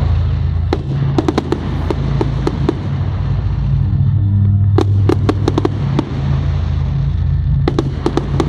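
Fireworks display: clusters of sharp pops and crackles from bursting shells, about a second in, about five seconds in and again near the end, over loud, steady, low-pitched music playing along with the display.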